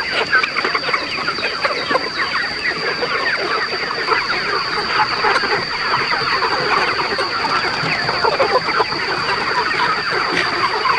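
A large flock of chickens calling and clucking, many short overlapping calls blending into a dense, continuous din. A steady high-pitched tone sits over it.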